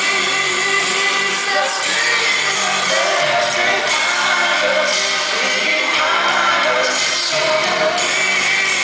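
Live concert music: a male lead singer with his band performing a slow, old-school soul ballad, heard from the audience.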